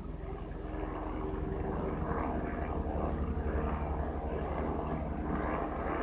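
Helicopter flying over, its rotor and engine drone with a fast low pulsing growing louder over the first couple of seconds and then holding steady.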